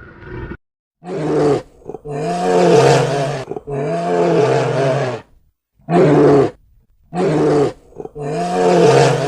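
Loud animal calls repeated six times, each a half-second to a second-and-a-half call with a bending pitch, separated by short pauses.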